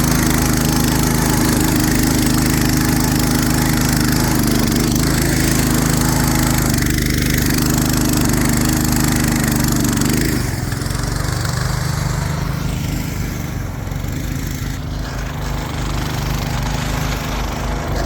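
Go-kart's small petrol engine running at a steady high speed, then easing off and dropping about ten seconds in to a lower, rougher running for the rest of the time.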